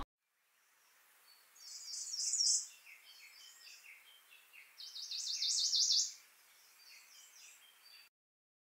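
Songbird singing, two loud runs of rapid high chirps with softer notes between, cutting off suddenly near the end.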